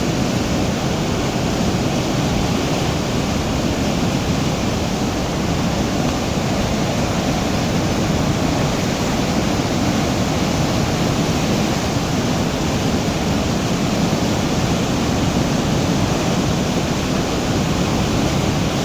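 A swollen mountain river in flood, its water rushing loud and steady without a break.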